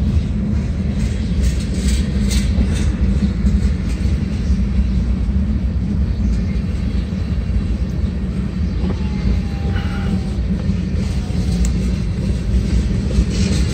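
Norfolk Southern freight train's tank cars, covered hoppers and boxcars rolling past: a steady rumble of steel wheels on the rails, with a few sharp clicks about two to three seconds in.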